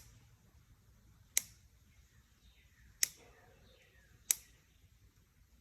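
Sharp single clicks of a hand cutting tool, about one every second and a half, as snips or cutters clip the wire mesh or zip-tie ends on a chicken coop.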